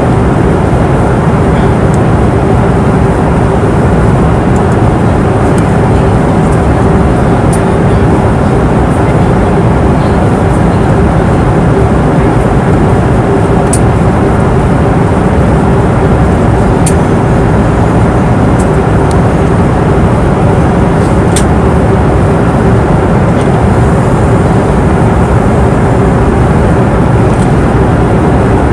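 Passenger airplane cabin noise in flight: a steady, loud rumble of engines and rushing air, with a constant low hum tone running through it and a few faint clicks.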